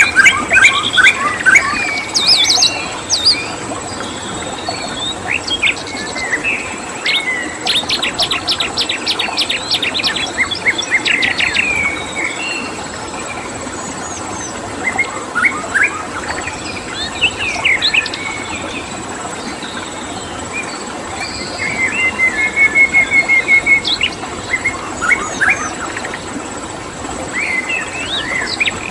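Several wild songbirds chirping and calling over a steady rush of flowing water, with a constant high insect whine. A fast run of rapid repeated notes comes around a third of the way in, and a quick even trill comes about three quarters of the way through.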